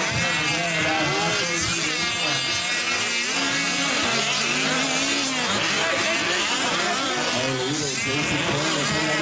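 Several 5th-scale RC trucks' small two-stroke gas engines racing together, each rising and falling in pitch as the throttle opens and closes, the notes overlapping.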